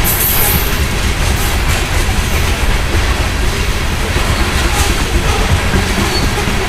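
Loaded coal train rolling past, its steel wheels on the rails making a steady loud rumble with scattered clicks.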